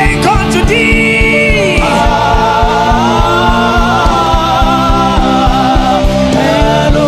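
Gospel chant music: sung voices holding long, gliding notes over a steady beat of about four drum strokes a second.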